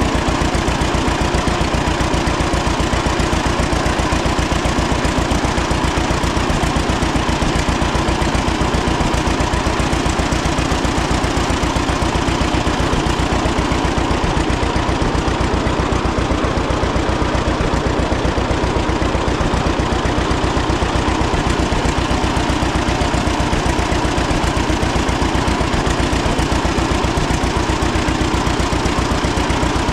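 1936 John Deere Model A two-cylinder engine running steadily, with an even, rapid beat of exhaust pulses that holds unchanged throughout.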